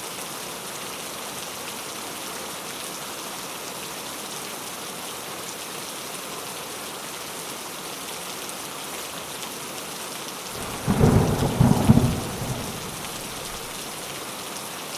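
Steady rain falling, an even hiss, with a loud low rumble of thunder breaking in about eleven seconds in and fading away within two seconds.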